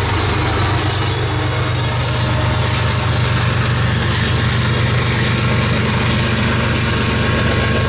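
Loaded coal train of hopper cars rolling past with a steady low rumble and drone.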